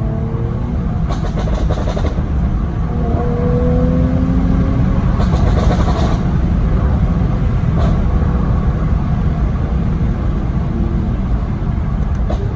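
Mercedes-AMG C43's twin-turbo V6 and exhaust running under way with a heavy, steady low rumble, broken by short clusters of sharp pops about a second in, around five to six seconds in, and near eight seconds in: the crackles of a pop-and-bang exhaust tune.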